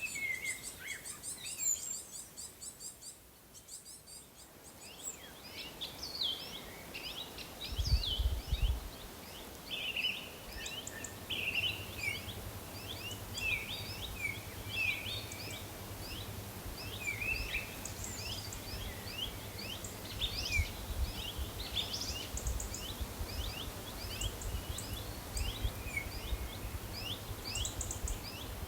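Several small birds chirping and singing in a busy, overlapping chorus. From a few seconds in, a low steady rumble runs underneath, beginning with a brief louder swell.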